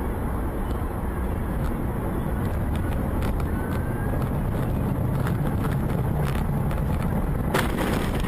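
Steady road and engine rumble of a moving car, with scattered short clicks and a sudden harsh burst of noise near the end.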